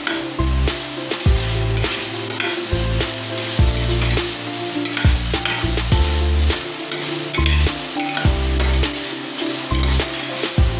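Chicken and diced vegetables sizzling as they fry in a stainless steel pan, stirred with a metal spatula that clicks and scrapes against the pan every second or so. Background music plays underneath.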